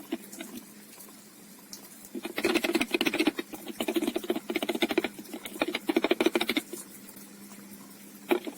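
Engine oil additive glugging out of an upturned bottle into the oil filler neck. It is a rapid run of gurgling pulses that starts about two seconds in, comes in a few bursts and stops abruptly after about four seconds.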